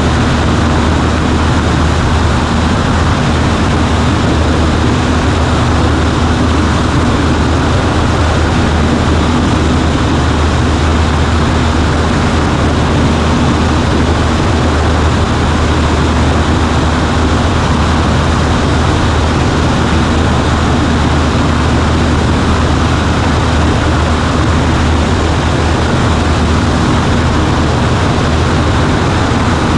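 Cessna 140A's engine and propeller running steadily, heard from inside the cabin: a loud, unchanging drone with a low hum under it.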